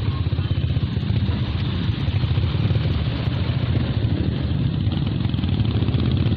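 Motorcycle engine running steadily close by, a low, fast, even putter.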